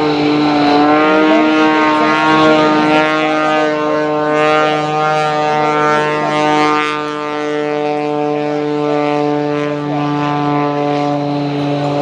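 Aerobatic biplane's 400-horsepower piston engine and propeller running at a steady pitch as it flies its routine, the level easing slightly partway through.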